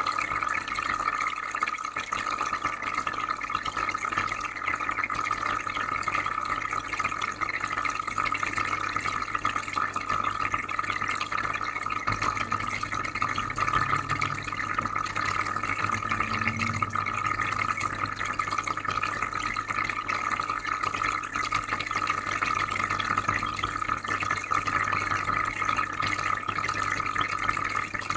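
Aquarium filter running with water steadily bubbling and trickling into the tank, over a constant low hum.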